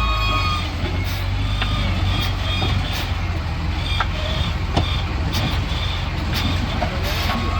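Heavy diesel engine of a wheel loader running steadily, with a reversing alarm beeping in short repeated tones and a few sharp knocks.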